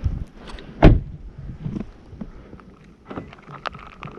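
A single heavy thump about a second in, then scattered small knocks and clicks.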